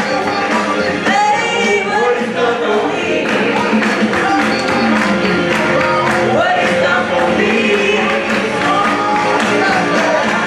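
Live gospel praise-and-worship music: voices singing over instruments with a steady beat.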